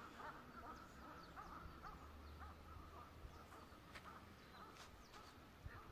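Near silence, with faint scattered bird calls.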